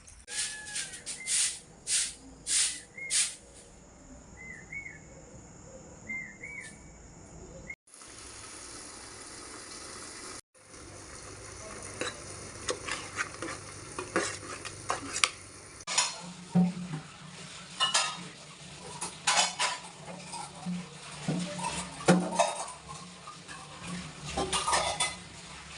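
Cooking sounds: metal utensils clinking, knocking and scraping against pots and dishes at an irregular pace over a steady sizzle of frying. There are a few short chirps in the first few seconds.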